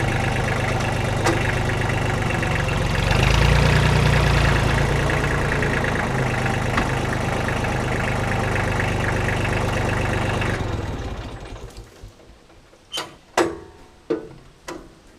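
Kubota L235 tractor's three-cylinder diesel engine running, rising briefly in speed about three seconds in, then shut off about ten seconds in and running down. A few sharp metal clanks follow near the end.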